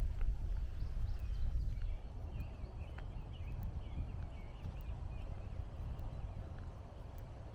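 Footsteps walking along a woodland trail over a low rumble of distant highway traffic. Birds chirp faintly from about two seconds in until past the middle. The steps are a little louder for the first couple of seconds.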